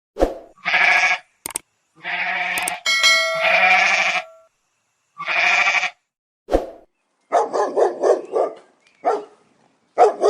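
Three loud bleats, the middle one long and drawn out, followed from about seven seconds in by a run of short, rapid dog-like yaps and barks.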